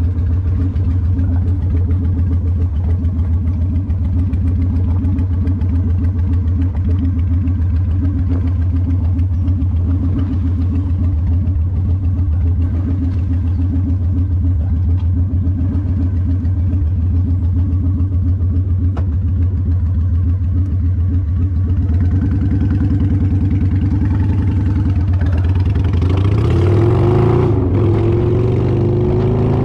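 Motorcycle engine running steadily with a low, rapid pulse, heard close up. Near the end the revs climb and dip, with rising and falling pitch and more rushing noise.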